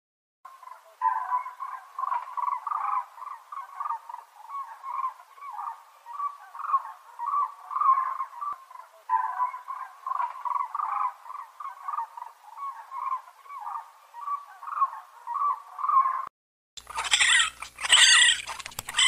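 Rapid series of short animal calls, pitched around the middle of the range. About three seconds before the end they stop and give way to a different sound with sharp clicks.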